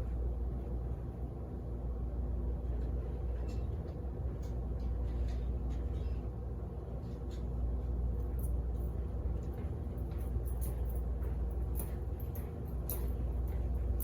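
Steady low hum of running laundromat machines, with scattered small metal clicks and ticks from needle-nose pliers working at the clips on a washer's belt assembly, more frequent in the second half.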